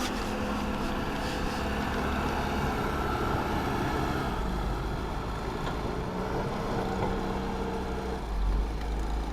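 A motor vehicle's engine running steadily, with a deep hum and a slight change in its note partway through.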